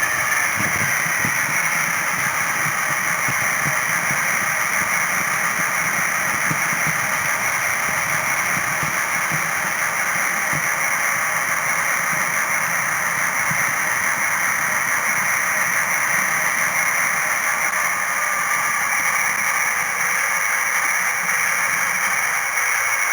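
H0-scale model train running steadily: a low mechanical rumble under a constant hiss, with no breaks or changes in level.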